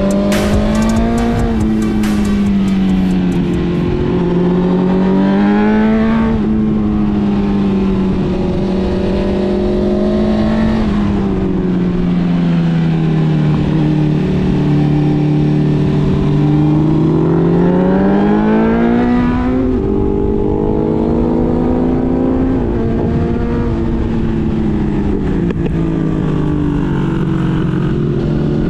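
Motorcycle engine heard onboard under way, its note rising and falling with the throttle and stepping through gear changes several times.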